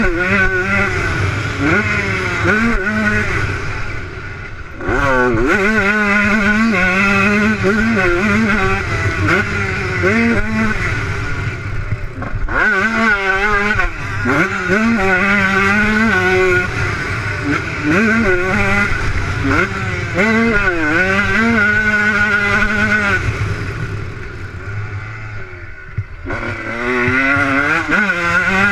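Motocross bike engine revving hard, its pitch repeatedly climbing and dropping with throttle and gear changes. It eases off briefly about four seconds in and again near the end.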